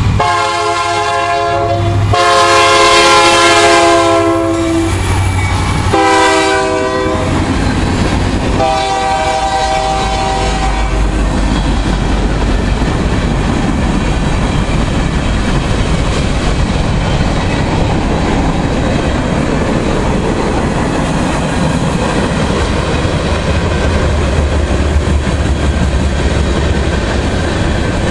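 Union Pacific freight locomotive's air horn sounding the grade-crossing signal: two long blasts, a short one and a final long one. From about eleven seconds in, the steady rumble and clickety-clack of covered hoppers and boxcars rolling past.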